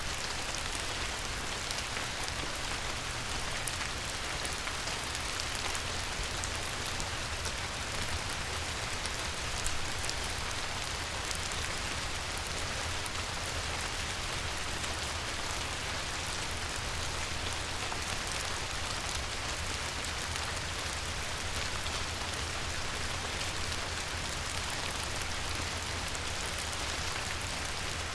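Light rain falling on a river: a steady, even hiss of drops with many fine ticks, over a steady low rumble.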